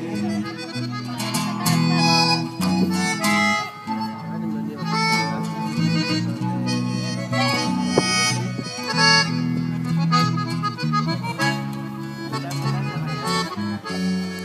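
Instrumental break of a sung love song: a free-reed instrument plays the melody over guitar and a stepping bass line.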